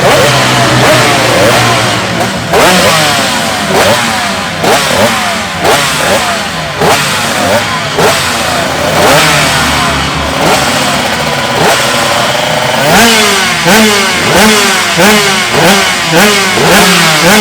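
Two-stroke racing motorcycle engine revved hard in quick, repeated throttle blips, each one rising and falling in pitch, with a longer held rev around the middle.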